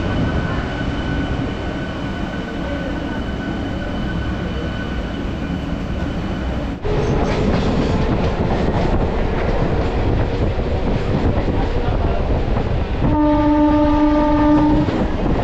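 MEMU electric local train running along the track, a steady rumble of wheels and coach noise. Near the end the train horn sounds one steady blast of about two seconds.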